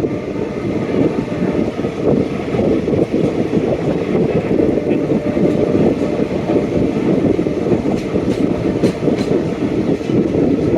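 Passenger express train running on the rails, a steady loud rumble of wheels on track.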